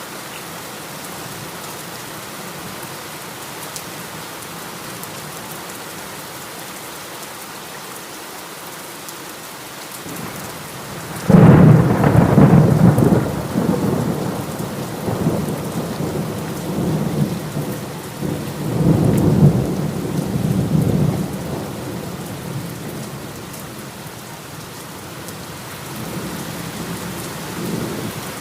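Heavy rain falling steadily. About eleven seconds in, a sudden loud thunderclap breaks out and rumbles on for about ten seconds, swelling again once before it dies back to the rain.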